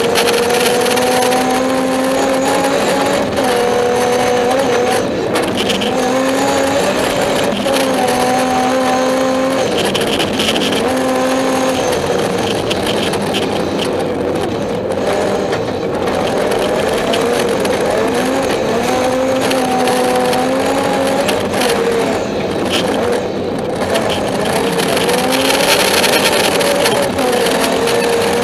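Rally-prepared BMW 325i's straight-six engine under hard acceleration, heard from inside the cabin: the pitch climbs and drops back again and again, every two to three seconds, at each gear change and lift.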